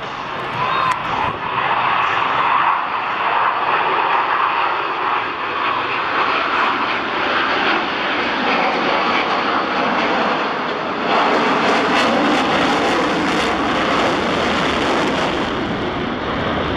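U.S. Navy Blue Angels F/A-18 Hornet jets flying past with loud, continuous jet-engine noise, which swells and brightens about eleven seconds in.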